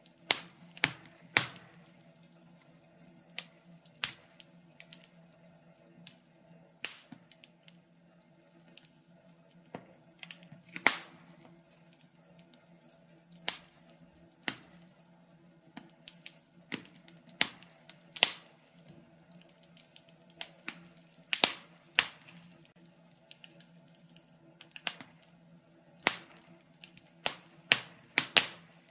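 Wood fire burning in a fireplace, crackling with irregular sharp pops and snaps, several a second at times, over a faint steady hiss.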